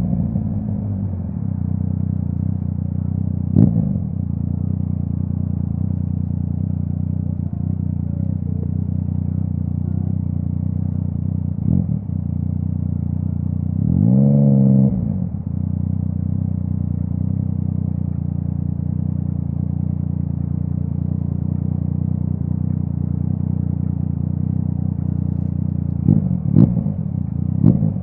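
Yamaha MT-09 three-cylinder engine through a full Akrapovic exhaust, running at a steady low speed. Around halfway through there is one short throttle blip that rises and falls. A few sharp clicks or pops are heard, one early and two near the end.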